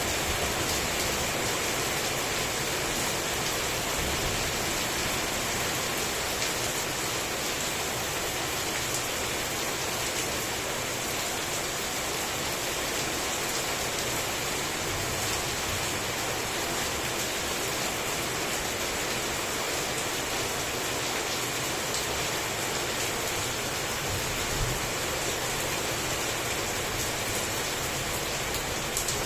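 Heavy rain falling steadily, a dense even hiss of drops hitting surfaces with fine scattered drop ticks.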